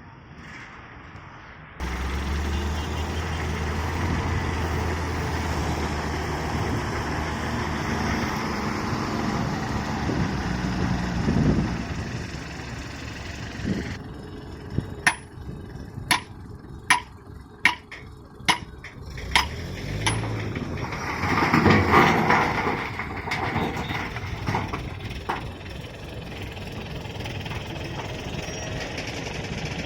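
Diesel engine of heavy road-construction machinery running, starting up loud a couple of seconds in. In the middle comes a run of about eight sharp knocks, roughly one every half second to second, followed by a louder surge of engine and working noise.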